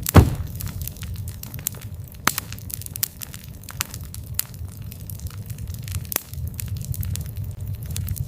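Wood campfire crackling, with irregular sharp pops and snaps over a steady low rumble of burning; one loud pop comes just after the start.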